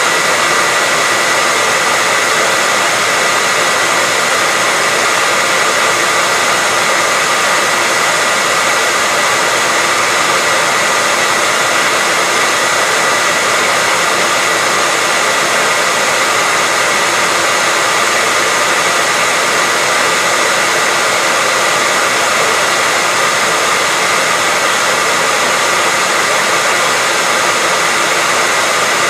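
Hair dryer running steadily: a continuous rush of air with a steady high whine from its motor and fan, unchanging throughout.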